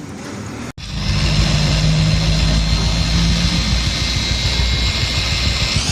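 Motorcycle engine running steadily at idle, cutting in abruptly and loud about a second in.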